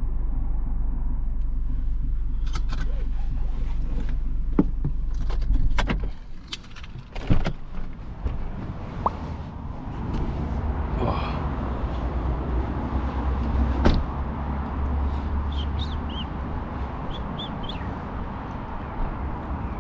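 Tuned Volkswagen Golf R engine idling, then switched off about six seconds in. Clicks and knocks follow, with a car door opening and later shutting with a thud, then steady outdoor traffic hum with a few bird chirps near the end.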